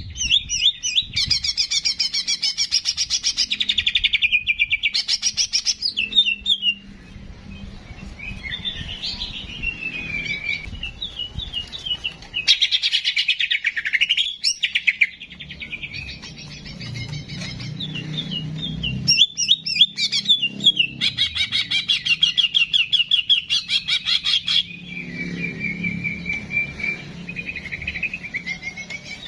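Cucak jenggot (a bulbul) singing: bursts of fast chattering trills and gliding whistled notes, broken by short pauses.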